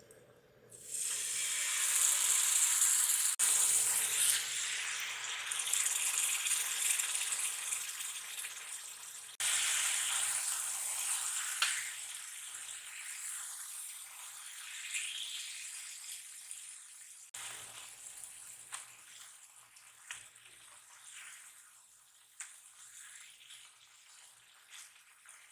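Food sizzling in hot oil in a pan. The sizzle starts loud about a second in and gradually dies down, broken by a few cuts, with small crackles and clicks.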